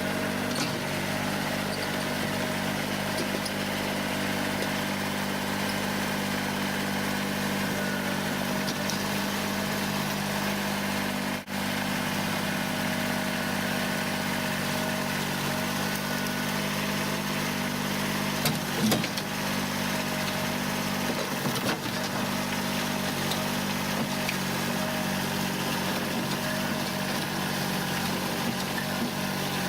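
Kubota diesel tractor engine running steadily, with a couple of brief louder moments where the pitch shifts about two-thirds of the way through.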